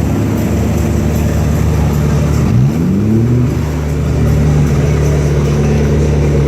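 Car engine running steadily, revving up once about two and a half seconds in.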